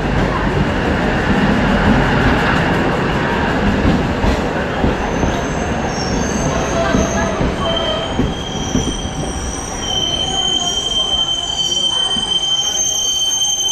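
Diesel multiple unit (DEMU) passenger train pulling in along a station platform: a loud rumble of engine and wheels as the coaches roll past. From about halfway through, a high, steady squeal sets in as the train slows to a stop.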